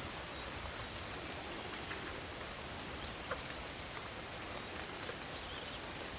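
Night-forest ambience: a steady hiss of rain, with scattered drops ticking now and then and a faint chirp once, a little past the middle.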